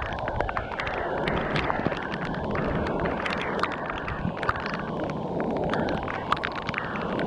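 Heavy rain pouring down steadily, with many sharp clicks of drops striking close by, and wind rumbling on the microphone.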